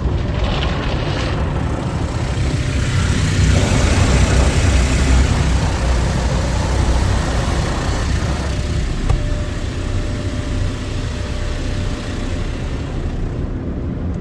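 MacNeil soft-touch car wash tunnel at work, heard from inside the car: a steady rush of water spray and foam brushes scrubbing over the body, with a low rumble, growing loudest a few seconds in and easing toward the end.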